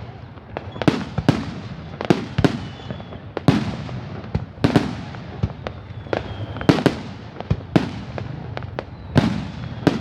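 Aerial fireworks shells bursting one after another in a display, about a dozen sharp bangs, each followed by a rolling echo, coming every half second to a second and a half.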